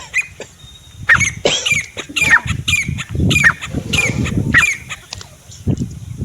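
Grey francolin (desi teetar) calling: a series of about eight shrill, sharply sweeping notes, roughly two a second, starting about a second in and ending just before five seconds, over low rustling.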